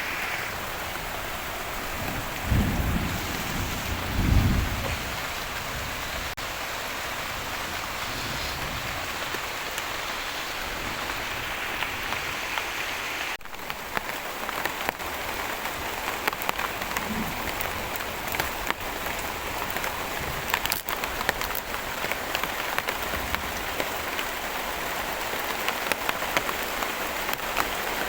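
Heavy rain pouring steadily in the forest, drops hitting leaves and surfaces. There are two brief low rumbles a few seconds in. In the second half, more separate drop ticks stand out.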